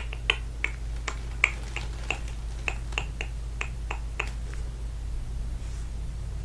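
A quick run of sharp clicks, about three a second, that stops about four and a half seconds in, over a steady low hum.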